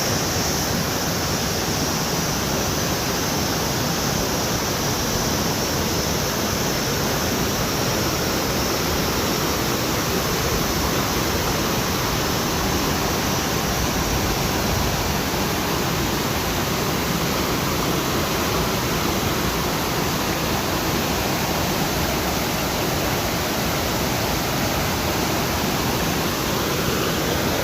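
Steady rushing of fast-flowing water, an even unbroken roar with no change in level.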